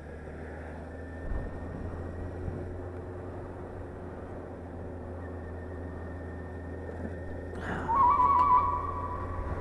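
Motorcycle running along at a steady pace, a low engine drone under wind and road noise. Near the end, a loud, high, wavering whistle-like tone sounds for about a second.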